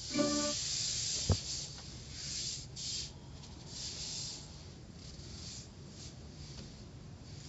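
Car-wash water spray hissing in repeated bursts over a low steady hum, with a short tone near the start and one sharp click after about a second.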